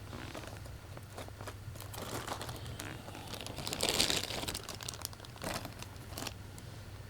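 Plastic being handled close up: crinkling and rustling with many small clicks, loudest about four seconds in.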